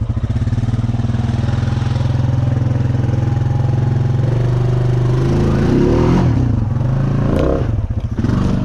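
Honda Rancher 420 ATV's single-cylinder engine running steadily, then revving up and down a few times from about five to seven seconds in.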